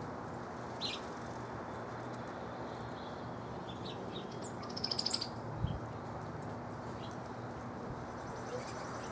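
Backyard songbirds chirping sparsely over a steady low background hiss: a single short chirp about a second in, then a quick cluster of high chirps and a brief trill around five seconds in, followed by one low thump.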